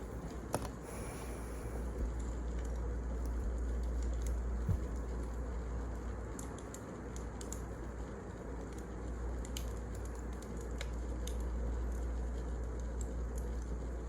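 Wood fire burning, with sparse, irregular crackles and pops over a steady low rumble.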